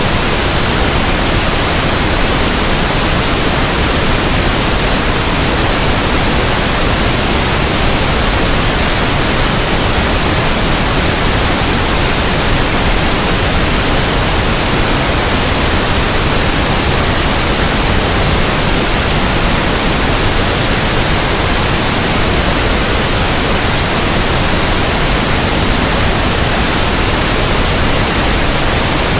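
Steady, unchanging pink noise: an even hiss spread across the whole range of pitch, with no events or changes.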